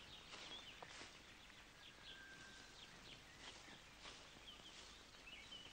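Near silence: faint soundtrack hiss with scattered faint bird chirps.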